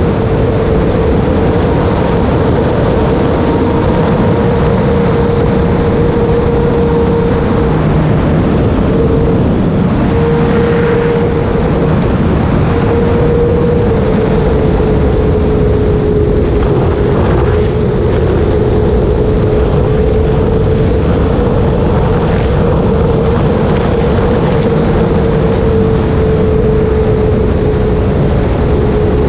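Electric motor and propeller of an E-flite Air Tractor radio-controlled model plane in flight: a steady whine that shifts slightly in pitch with the throttle, over a loud rushing noise.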